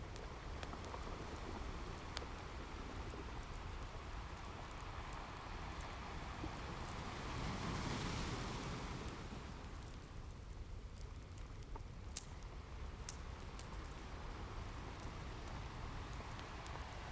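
Ocean waves washing in, one wave swelling and breaking about halfway through, with a wood fire crackling in sharp scattered pops throughout.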